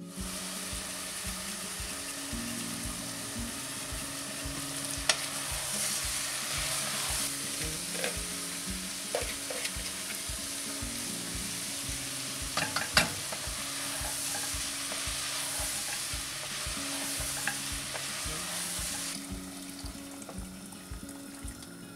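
Chopped vegetables and meat sizzling in a pot as they are stirred, with a few sharp knocks of the spoon against the pot, the loudest about halfway through. The sizzling dies down near the end as water is poured in. Faint acoustic guitar music plays underneath.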